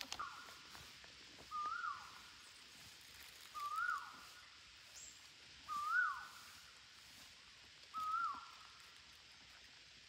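A bird's clear whistled call repeated about every two seconds, four times. Each is a short note that rises and then drops sharply.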